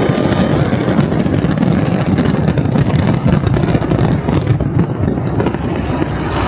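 Fireworks barrage: a dense, continuous rumble and crackle of many overlapping bursts.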